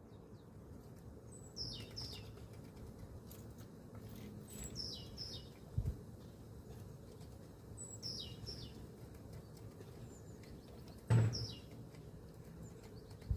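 Small birds at a feeder calling: short high chirps that fall in pitch, in little groups every few seconds. A dull knock comes about six seconds in, and a louder, sharper knock about eleven seconds in.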